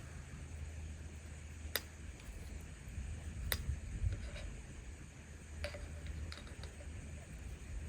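Campfire crackling: a few sharp, irregular pops and snaps from the burning wood over a steady low rumble.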